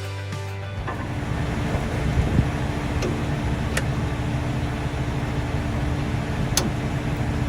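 Engine of heavy harvest machinery running steadily, a low rumble with a steady hum over it, broken by a few sharp clicks.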